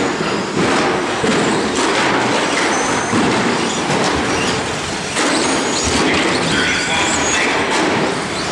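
A pack of radio-controlled short course trucks racing on an indoor track: a steady, busy din of the trucks running, with faint high motor whines rising and falling.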